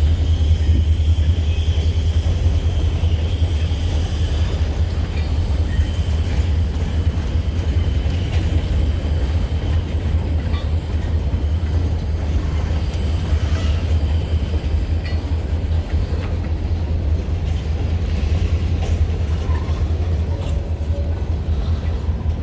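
Single diesel locomotive, Missouri & Northern Arkansas No. 2745, running along the track: a steady low rumble with scattered faint wheel clicks and a faint high whine over the first several seconds.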